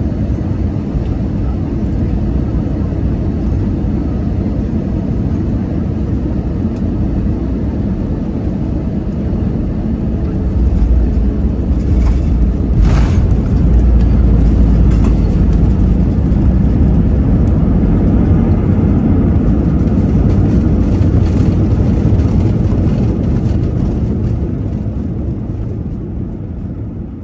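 Airbus A320-200 cabin noise during landing. About halfway through there is a sharp thump as the wheels touch down firmly. A loud rumble follows during the heavy braking rollout on a short runway, dying down near the end as the aircraft slows.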